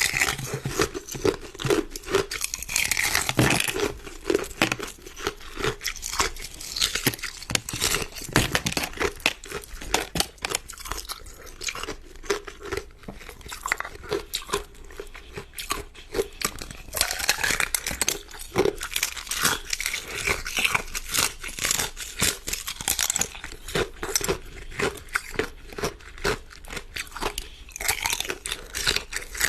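A person biting and chewing hard ice, with a rapid, continuous run of sharp crunches and cracks as the ice breaks between the teeth.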